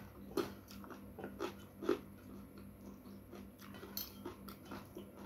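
Close-miked chewing of a mouthful of rice and crisp fried salted fish, with a few short, sharp mouth clicks.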